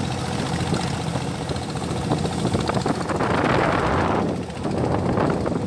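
A boat engine running steadily. A louder rush of wind or water noise comes about three seconds in and lasts about a second.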